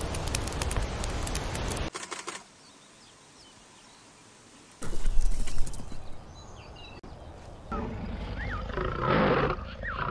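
A run of separate nature sounds. Surf and wind hiss for about two seconds, then a quiet spell, then a burst of low rumbling noise. Near the end a lion gives a low growl while birds chirp.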